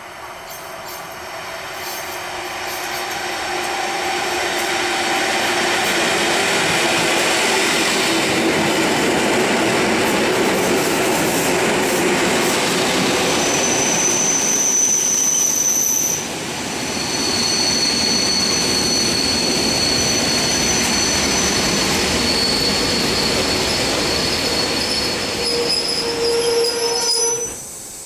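PolRegio EN57 electric multiple unit running along the platform, its noise building over the first six seconds and then holding steady. Long, high-pitched wheel squeals come in from about halfway through.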